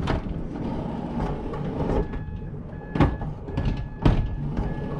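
Minivan sliding door being worked, with loud knocks and rattling and, from about two seconds in, a repeating beep.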